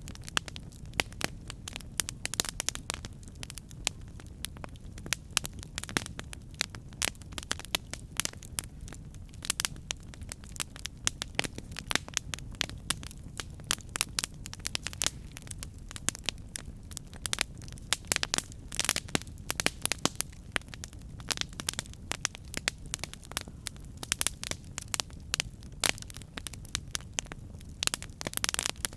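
Campfire burning with irregular sharp crackles and pops of burning wood over a steady low roar of the flames.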